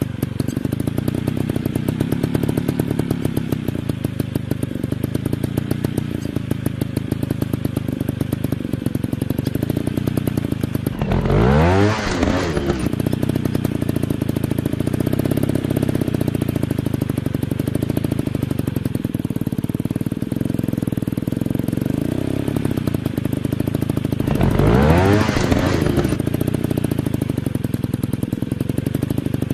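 Dirt bike engines running steadily, with the engine pitch sweeping up and back down twice for about two seconds each, once near the middle and once near the end.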